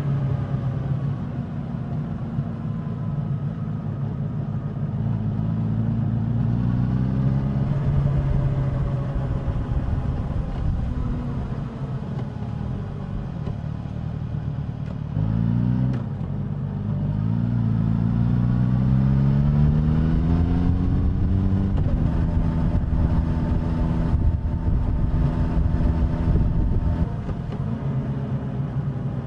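Suzuki GSX-S1000 inline-four engine and exhaust on the move, with wind and road noise. The engine note rises with the throttle several times. About halfway through, the revs climb, break off and climb again through a gear change.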